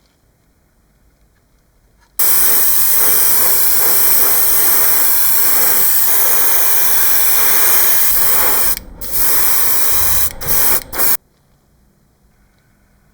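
Paint spraying with a loud, steady hiss for about nine seconds, broken by three short releases of the nozzle near the end before it stops abruptly.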